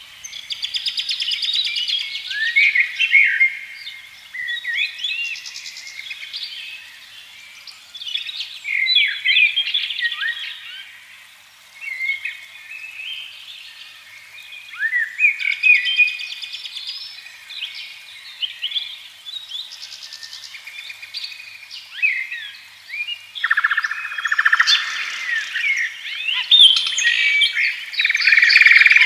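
Several songbirds singing together, overlapping chirps and trilled phrases, with a denser burst of song near the end.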